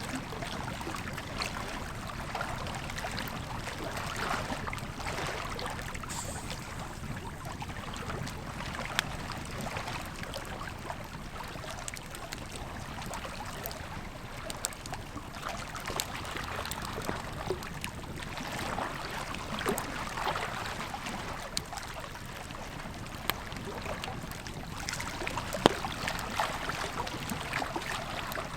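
Campfire crackling, with scattered sharp pops, over the steady rush of a river.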